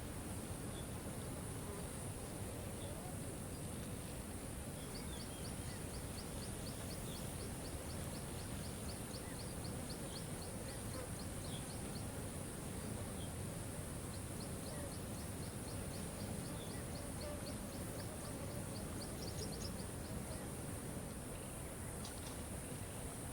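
Steady rush of a waterfall. Over it, a bird repeats a rapid series of short, high notes at about four a second for several seconds at a time, twice.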